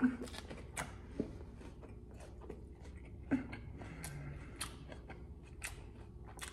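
A person chewing a mouthful of crisp lettuce salad close to the microphone: faint, irregular small crunches and mouth clicks.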